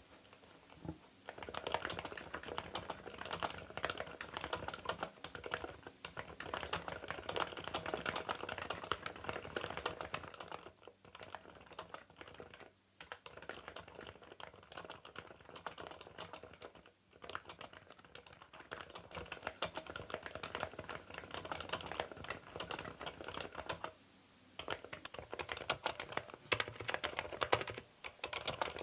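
Fast, continuous typing on a CIDOO V87 aluminium-cased mechanical keyboard fitted with Epomaker Sea Salt silent linear switches. The keystrokes start about a second in and run with a few brief pauses.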